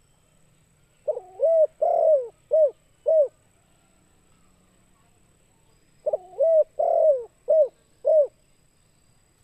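Spotted dove (tekukur) cooing: two songs about five seconds apart, each a phrase of about five low coo notes, the last two short and separate.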